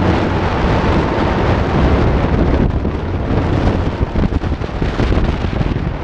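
Wind buffeting a GoPro's microphone: a loud, steady rumble and rush with no break.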